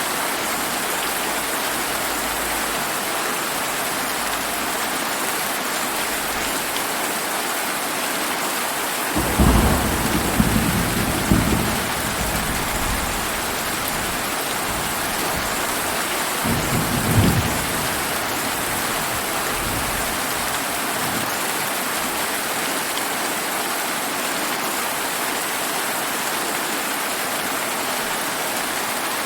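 Steady rain falling throughout, with two thunder rumbles: a sudden one about nine seconds in that rolls on for a few seconds, and a shorter one about seven seconds later.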